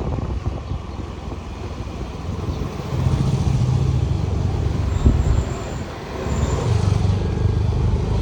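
Motorcycle engine running on the road. Its low note grows stronger about three seconds in, eases off around six seconds and picks up again a second later.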